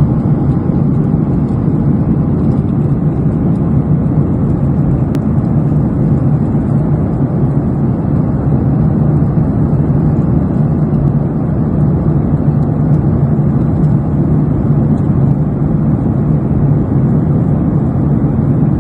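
Airliner cabin noise: the engines and airflow make a loud, steady low rumble that does not change, then cuts off suddenly at the end.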